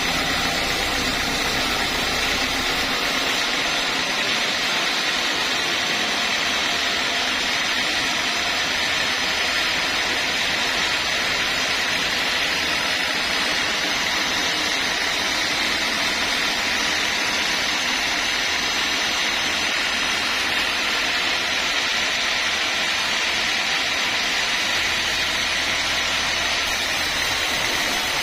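Sawmill saw running, a loud, even noise strongest in the upper middle range. A low rumble underneath drops away about three seconds in.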